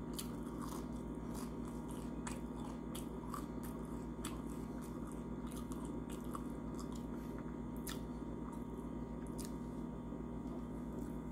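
Close-up chewing of a fried onion ring, with scattered crunches and wet mouth clicks over a steady low hum.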